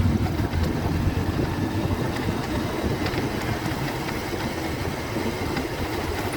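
Bajaj Pulsar 150's single-cylinder engine running under way, mixed with a steady low wind rumble on the microphone from riding.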